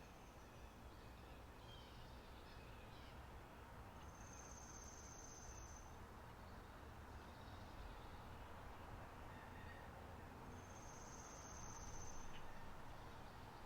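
Spring meadow nature ambience, faint: a high, thin trill twice, each lasting about two seconds, with faint scattered bird chirps over a soft background hiss.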